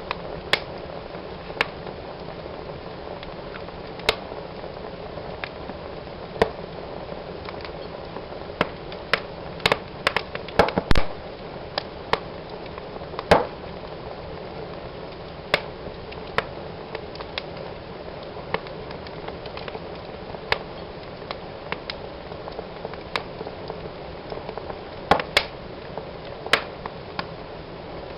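Wood fire burning in a fireplace: a steady low rush of flames with irregular sharp pops and crackles, several in quick succession about ten seconds in.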